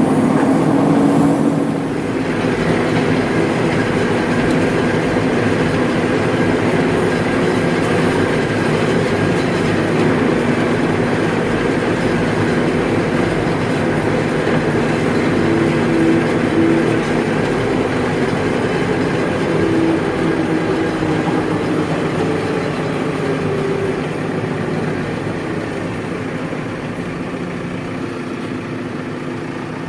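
Heavy diesel engine running steadily under load, a little quieter from about two seconds in.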